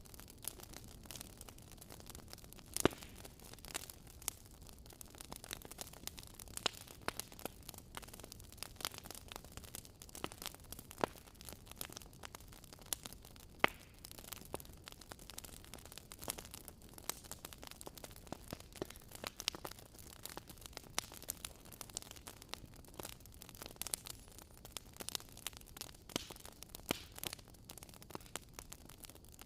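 Wood fire in a fireplace crackling: irregular sharp pops and snaps over a soft steady hiss, with a few louder pops about 3 and 13 seconds in.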